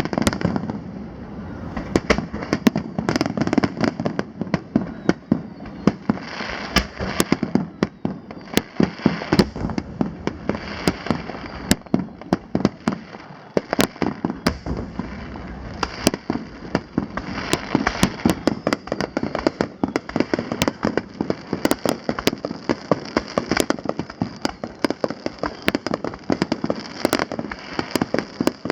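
Aerial fireworks display: a rapid, unbroken barrage of shell bursts, several sharp bangs a second, with the booms echoing in between.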